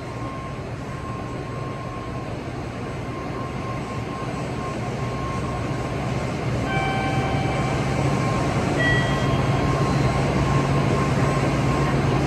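Steady low hum of an N700-series Shinkansen train standing at the platform, growing louder from about halfway through. Two short high tones sound at about seven and nine seconds in.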